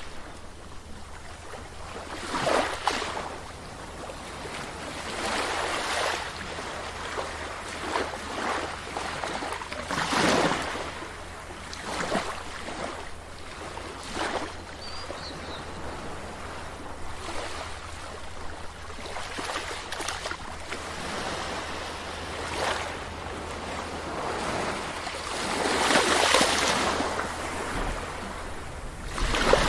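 Sea waves breaking on a shore: surf washing in and out, swelling every few seconds, with the biggest wave near the end.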